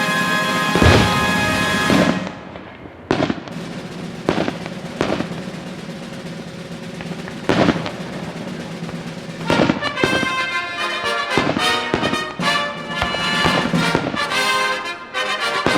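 Aerial fireworks going off, with a crackling cluster of bursts at first and then single sharp bangs every second or two. Background music with brass plays underneath and becomes busier about ten seconds in.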